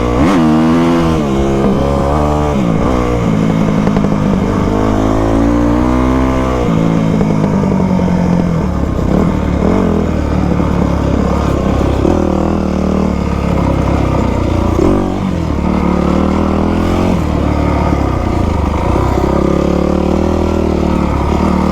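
2000 Yamaha YZ250 dirt bike's two-stroke single-cylinder engine while being ridden: the revs climb and fall twice in the first seven seconds or so, then it runs at a steadier, gently varying pace.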